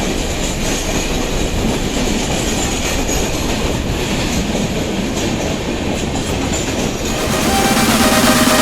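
Passenger express train rolling past, its coaches' wheels clicking over the rail joints with some wheel squeal. The sound grows louder, with a few steady tones, near the end.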